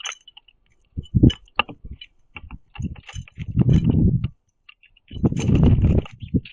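Birds pecking seed on a wooden platform feeder, a run of quick taps and clicks with small high chirps. Among them are three low scuffling bursts, a short one about a second in and two of about a second each later on, typical of wings flapping as the mourning doves and a northern cardinal jostle for the seed.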